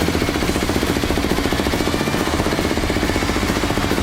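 Yamaha Tricker S 250cc air-cooled single-cylinder engine running at idle, a steady, rapid, even thumping.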